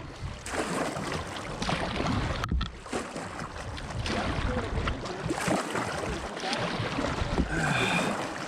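Rushing river water around kayaks, with wind buffeting the microphone and irregular splashing.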